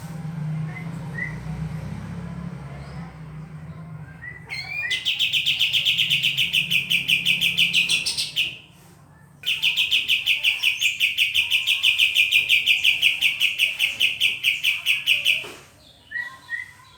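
Yellow-vented bulbul (trucukan) calling in two long runs of rapid, evenly repeated high notes, about six a second, with a gap of about a second between them; a few faint single chirps come before, over a low steady hum.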